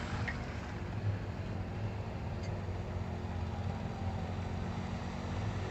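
ATV engine running steadily at low revs, a low even hum with no revving.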